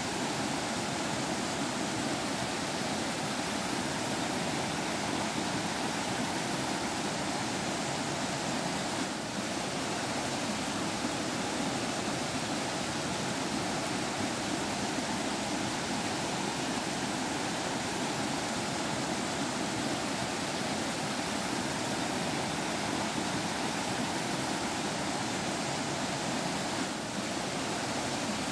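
Forest stream water flowing and splashing over rocks in a steady, unbroken rush, with two momentary dips in level.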